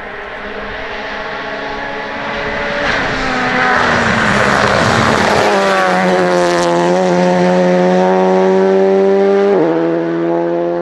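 Rally car engine under hard acceleration, growing louder as it approaches, with a rush of tyre and gravel noise as it comes close. The engine note then climbs steadily, drops suddenly at an upshift near the end, and starts to fade.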